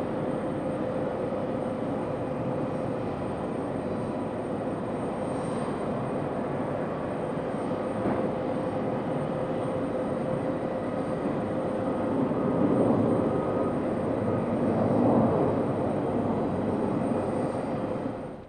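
Jet airliner engines: a steady rumble carrying a held whine, swelling louder twice near the end before cutting off suddenly.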